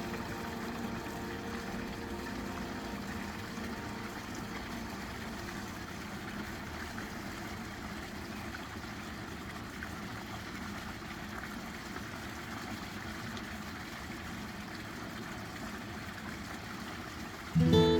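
Steady sound of running water, an even hiss with no single splashes standing out. Music comes back in abruptly near the end.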